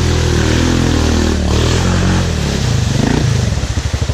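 Yamaha Grizzly 700 ATV's single-cylinder engine running at steady revs. About two seconds in the revs drop, and near the end it settles into an even, pulsing idle.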